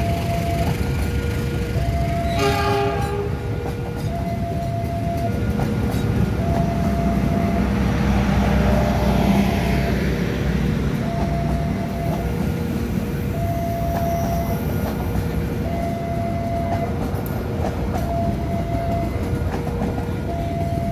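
KA Wijayakusuma's passenger coaches rumbling past on the rails. Over the rumble, a level-crossing alarm sounds an alternating high and low tone, about one note a second. A short horn blast comes about two and a half seconds in.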